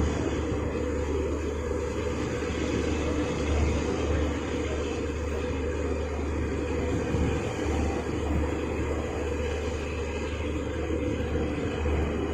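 Passenger express train running on the line: a steady rumble of the coach's wheels on the rails, heard from on board, with the low drone swelling and easing every few seconds.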